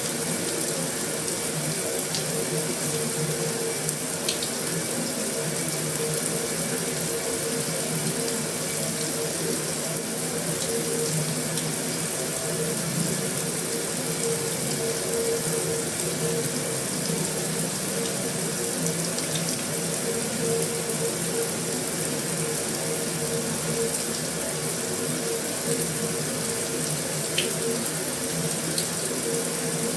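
Heavy rain falling steadily on a metal roof: a dense, even hiss of drops, with a few sharper single drop ticks standing out.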